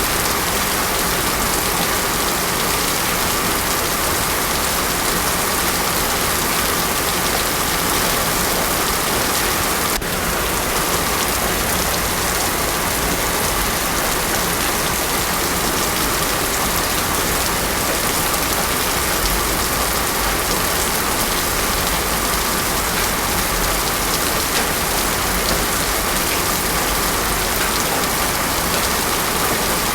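Heavy rain pouring steadily onto a paved road, an even, dense hiss with no thunder.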